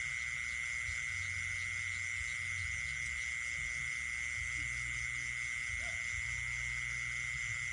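Night chorus of insects and frogs, dominated by one continuous high-pitched insect trill, with a low uneven hum underneath.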